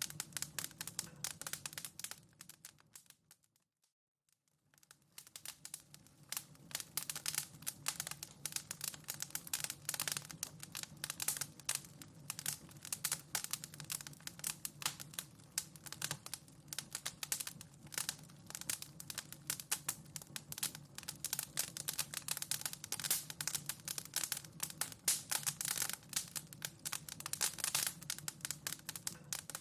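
Wood fire in a fireplace crackling and popping with dense, irregular snaps. Near the start it fades almost to silence for about two seconds, then the crackling resumes.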